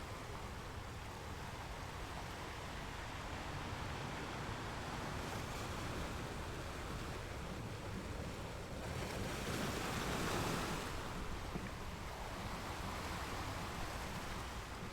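Ocean waves washing on a shore, a steady rush of surf with one wave swelling louder about nine seconds in and falling away.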